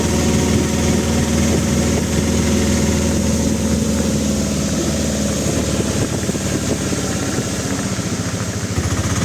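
A vehicle engine running steadily, with an even low pulsing hum.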